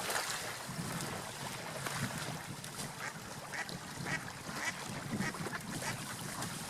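Ducks quacking in short calls about half a second apart as they wade and feed in shallow water, over a steady hiss of water.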